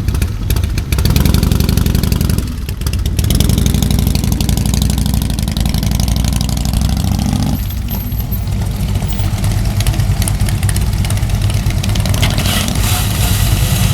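Motorcycle engines idling and revving close by, the engine note changing a few times as the throttle is worked and bikes move off.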